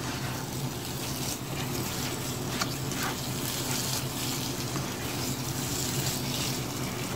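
Okara with vegetables and soy sauce sizzling in a non-stick frying pan over high heat, steady frying noise as it is stirred and pressed with a nylon spatula. A few faint scrapes of the spatula on the pan.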